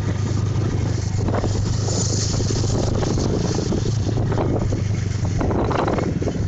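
Small single-cylinder motorcycle engines idling steadily.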